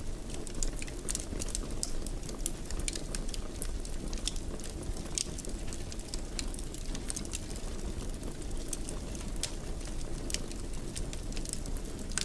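Wood fire burning in a fireplace: a steady low rushing with frequent sharp crackles and pops scattered irregularly.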